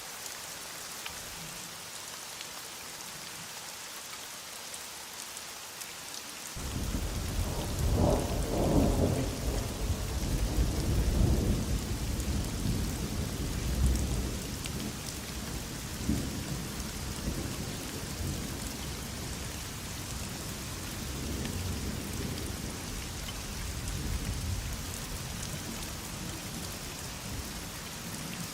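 Steady heavy rain hissing, joined about a quarter of the way in by a long roll of thunder that is loudest for several seconds, then rumbles on more softly in lower waves.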